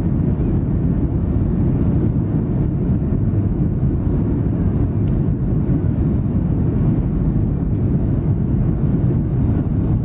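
Steady low rumble of a Boeing 737-800's CFM56 jet engines and rushing air, heard inside the passenger cabin.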